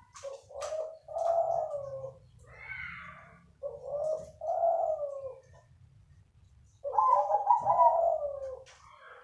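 Zebra dove (perkutut) cooing: three phrases of soft warbling notes with pauses between them.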